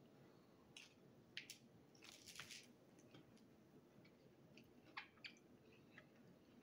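Faint chewing of a mouthful of pizza: scattered soft crunches and wet mouth clicks, a few together about two seconds in and two more around five seconds in.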